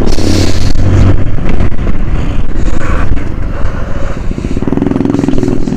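100 cc motorcycle engines running while riding, with wind rushing over the microphone. The engine's firing pulses come through more plainly in the last couple of seconds.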